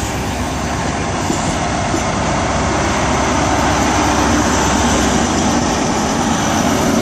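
Diesel engine of a Class 43 High Speed Train power car running as the train rolls into the platform, with the rumble building over the first few seconds and then holding steady.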